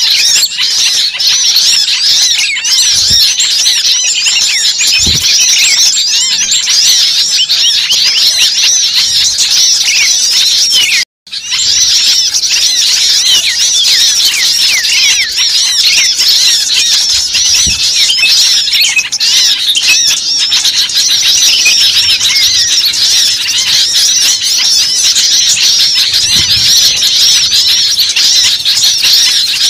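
A dense chorus of many small birds chirping and squealing at once, steady and loud, with a brief cut to silence about eleven seconds in.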